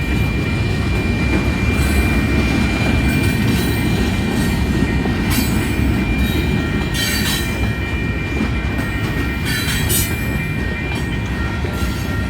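Freight train cars rolling past on the rails: a steady low rumble with a thin high wheel squeal running through it and several brief sharper squeals.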